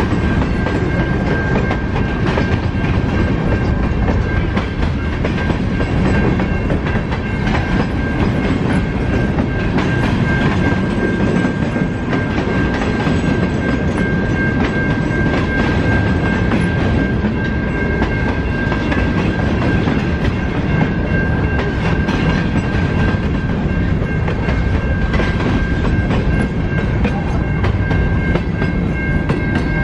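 A train rolling past close by, its steel wheels clacking over the rail joints, with a steady high-pitched tone throughout.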